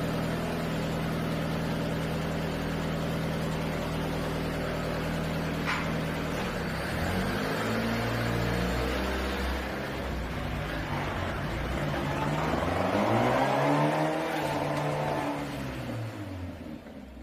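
Engine of a handmade off-road vehicle running steadily, then its pitch rising and falling twice as it revs and drives, fading out near the end.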